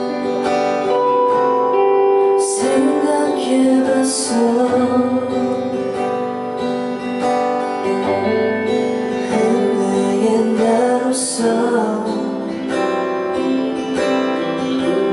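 Live band music: a guitar strumming chords while a woman sings a Korean pop-ballad melody, with the sung line about four and a half seconds in.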